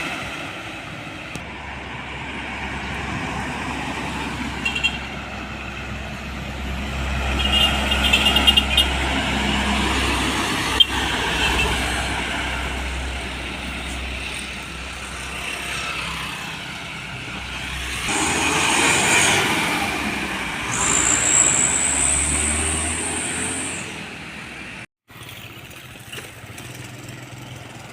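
Road traffic passing one vehicle after another, heavy diesel trucks among them, each swelling and fading as it goes by with a deep engine rumble and tyre noise. A high whine sounds for about two seconds late on, and the sound cuts out briefly near the end.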